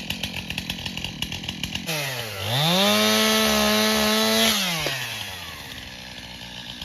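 Chainsaw idling with an uneven pulse, then opened up to full throttle: the engine note dips, climbs and holds high for about two seconds before dropping back to idle.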